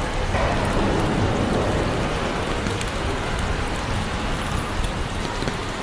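Steady rain, a rain sound effect, falling as an even hiss.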